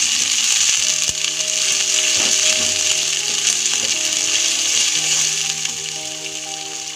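Green peas sizzling in hot oil in a pan, stirred and scraped with a wooden spatula. Soft steady music notes sit underneath from about a second in.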